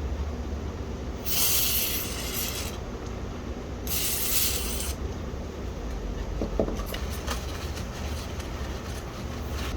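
Aerosol contact-cleaner spray (DeoxIT D5) hissing in two short bursts, the first about a second and a half long and the second about a second. A few light clicks and taps follow near the end.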